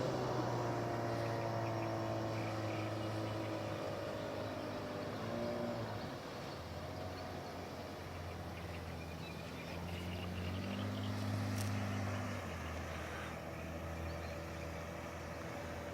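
Suzuki DT 9.9 two-stroke outboard motor running, its pitch dropping about six seconds in, rising again for a couple of seconds around eleven seconds, then settling lower.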